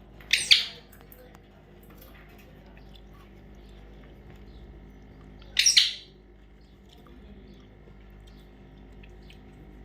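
A parrot giving two short, shrill calls about five seconds apart.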